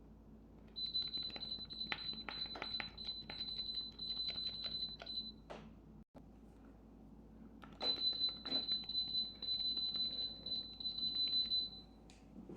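Vortex mini split indoor unit making a steady high whine with rapid clicking, twice, each run lasting about four to five seconds, with a short gap between.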